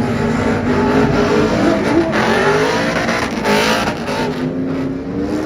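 Several truck engines revving hard at high rpm during burnouts, their pitch rising and falling, over the hiss and squeal of spinning tyres.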